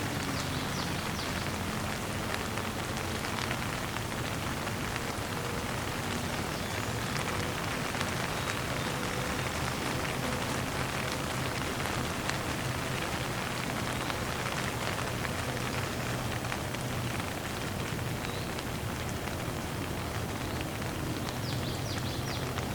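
Gentle rain falling steadily, an even hiss of drops on a surface.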